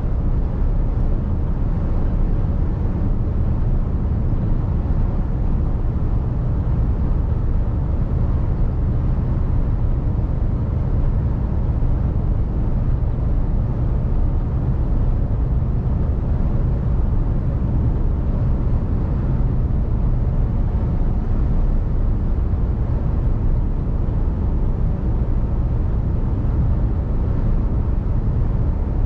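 Mercedes-Benz Actros truck driving: its diesel engine and road noise as a steady low rumble, heard from the cab.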